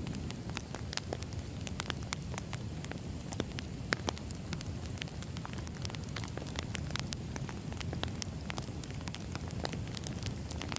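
Burning firewood crackling: many irregular sharp pops and snaps over a steady low rumble of the fire.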